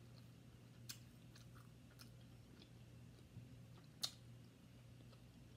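Faint chewing of a barbecue-sauced rib, with a few soft mouth clicks and smacks. The sharpest click comes about four seconds in.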